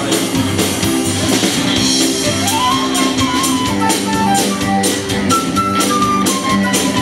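Live rock band playing an instrumental passage: drums with steady cymbal strokes, bass and chords, and a lead line of held notes that climbs and then steps back down.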